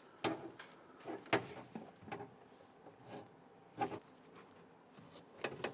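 Pliers and a plastic wiring-harness connector inside a car door clicking and rattling as the connector's locking tab is pinched and the connector is wiggled loose. The clicks come singly at uneven intervals, with a quick cluster near the end.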